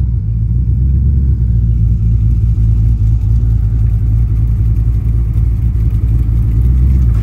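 A vehicle engine running steadily, a low, even drone with no revving.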